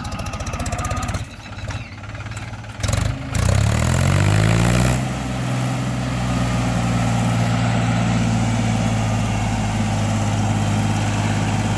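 John Deere tractor's diesel engine starting. It catches about three seconds in, rises quickly in speed, then settles into a steady idle.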